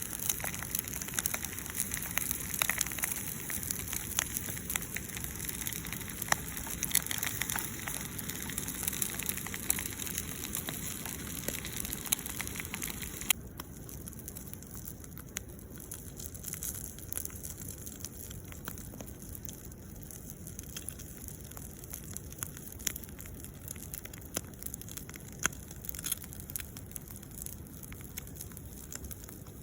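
Campfire crackling, with frequent sharp pops over a steady hiss. The hiss drops off suddenly about halfway through, while the crackling carries on more quietly.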